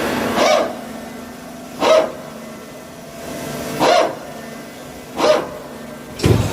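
A dog barking five times in short, single barks spaced a second or two apart, over a steady mechanical hum.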